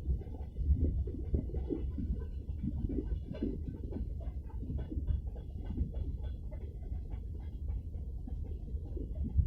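Freight train rolling past: a steady low rumble with frequent irregular clicks and knocks from the wagons' wheels and couplings.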